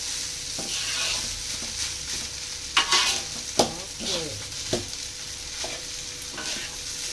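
Fried rice sizzling in a frying pan with a steady hiss while a spatula stirs it. Scraping strokes and sharp knocks of the spatula against the pan come through, most of them in the middle of the stretch.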